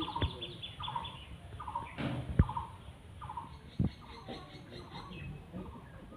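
Birds calling in the background, short calls repeating about twice a second with a fast high ticking in the first couple of seconds. Two sharp knocks, the loudest sounds, come about two and a half and four seconds in.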